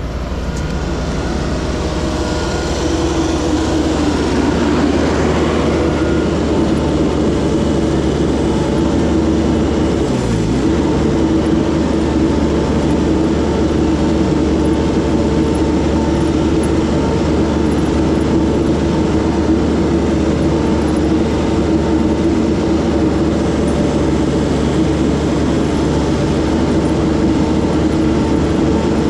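Engine running steadily at a constant speed, building slightly over the first few seconds and then holding even.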